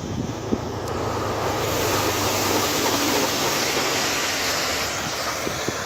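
Steady rushing noise of wind buffeting the microphone, loud and even throughout.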